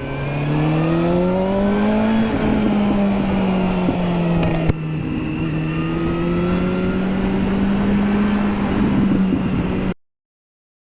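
Motorcycle engine accelerating, its pitch rising over about two seconds, then running at a fairly steady cruising speed. The sound cuts off abruptly near the end.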